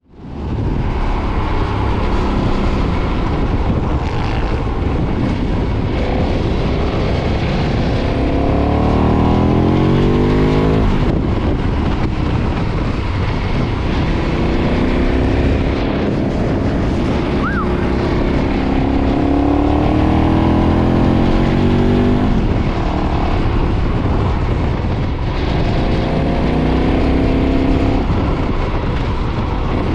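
KTM 990's stock-exhaust LC8 V-twin engine accelerating under way, its revs climbing in several long sweeps and dropping briefly at each gear change.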